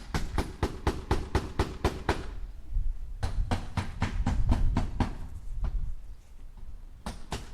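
Hammer tapping nails into wood in quick, even runs of strikes, about six a second. The strikes stop about two seconds in, start again a second later and keep going for a few seconds, with a low rumble underneath, then pick up again near the end.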